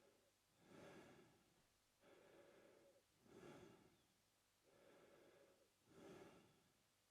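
Adult man breathing slowly and evenly through his mouth, quietly, in and out about every two and a half seconds, with one half of each breath short and a little louder, the other longer and softer.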